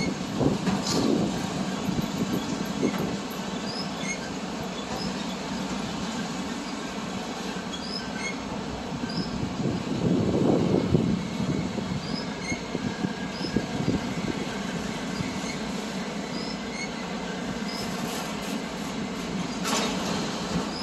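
CPKC freight train rolling past: a steady rumble of wheels and cars, with short high wheel squeals scattered throughout and a few clanks about a second in and again near the end.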